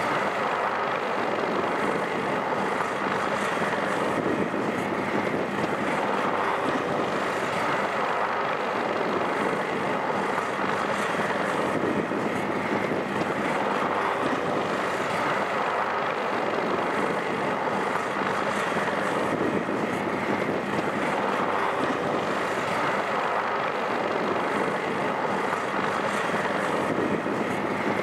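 Navy helicopter's engines and rotor running, a loud steady noise.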